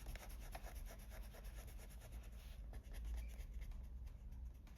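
Faint, quick back-and-forth scrubbing of a Factis pen-style eraser on paper, lifting leftover coloured-pencil dust from earlier layers.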